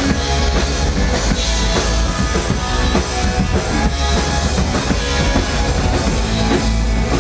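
Punk rock band playing live between sung lines: loud distorted guitars, bass and a driving drum kit.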